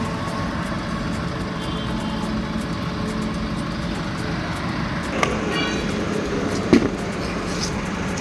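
Steady motor-vehicle engine and traffic noise, with a short knock about five seconds in and a louder sharp click near seven seconds.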